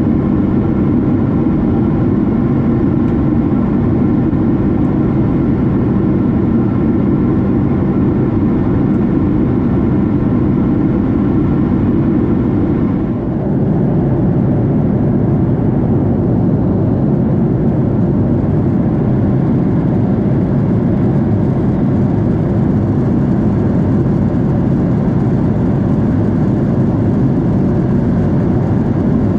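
Cabin noise of a Boeing 767 airliner in flight: a loud, steady roar of engines and airflow with several humming tones. About halfway through, the higher tones fade and the sound dips briefly, then goes on steady.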